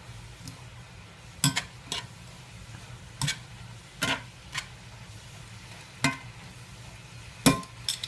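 A utensil stirring vegetables in a cast iron pan, knocking and scraping against the pan about eight times at uneven intervals, over a faint steady sizzle.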